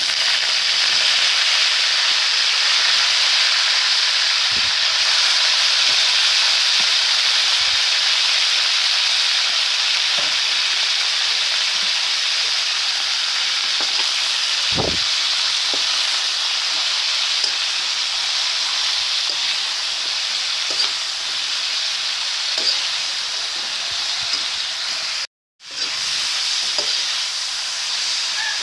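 Water spinach (kangkong) sizzling steadily in a hot pan as it is sautéed and stirred, with occasional knocks of the stirring utensil against the pan. The sound cuts out for a moment about 25 seconds in.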